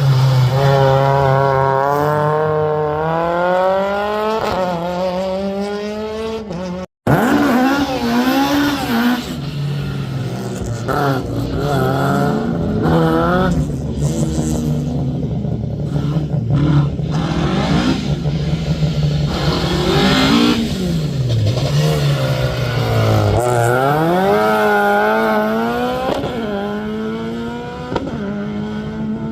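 Rally car engine being driven hard, its pitch climbing under acceleration and dropping back at each gear change or lift, over and over. The sound cuts out completely for a moment about seven seconds in.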